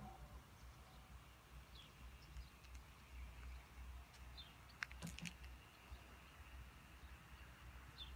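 Quiet outdoor ambience, near silence: a few short, high, falling bird chirps scattered through it over a faint low rumble, with two sharp clicks about five seconds in.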